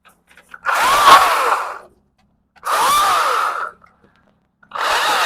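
Battery-powered top-handle chainsaw run in three short bursts of about a second each, the motor pitch rising as it spins up and dropping away at the end of each burst, typical of quick cuts through small branches.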